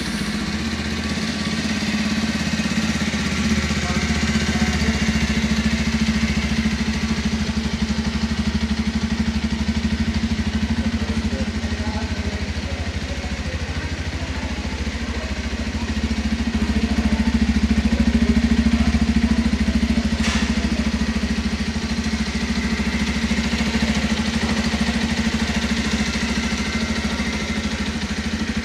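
Bajaj Pulsar 125's single-cylinder engine idling steadily, heard at the exhaust, just after starting. It gets a little louder for a few seconds past the middle.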